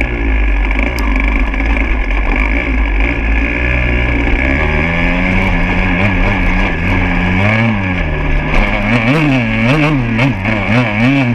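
Motorcycle engine running on a trail ride, with wind noise on the microphone; from about halfway on, the revs rise and fall over and over as the throttle is worked.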